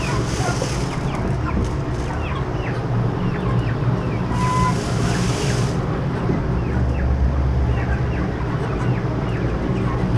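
A flock of young broiler chickens peeping, many short falling peeps over a steady low hum, with a brief rush of hiss about halfway through.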